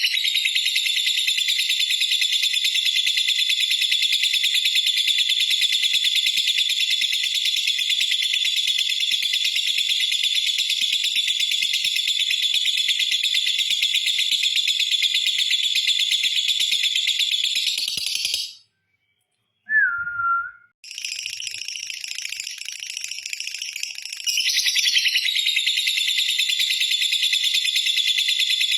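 Lovebird's long 'ngekek' trill: a high, rapid, unbroken chatter held for about eighteen seconds. It breaks off into a short silence with one brief falling whistle, then starts again and grows louder a few seconds later.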